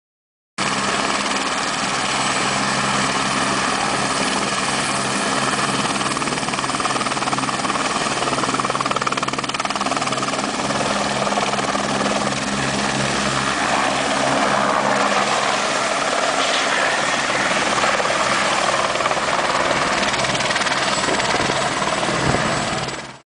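Tour helicopter running steadily at a constant pitch, a steady hum and whine of turbine and rotor. It starts suddenly about half a second in and cuts off at the end.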